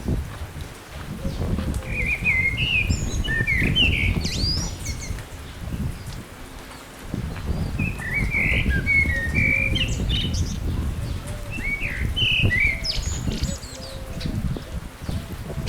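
Small birds singing in two spells of quick chirping phrases, over a louder, uneven low rumble.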